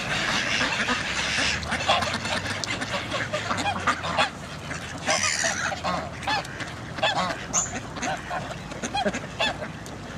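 Geese honking over and over, many short calls overlapping, with ducks among them. A rushing noise sits under the calls for the first couple of seconds.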